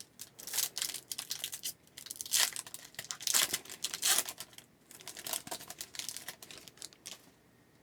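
Crinkling and tearing of a foil hockey card pack wrapper being opened, with the cards being handled, in a run of irregular crackles and rustles that stops about seven seconds in.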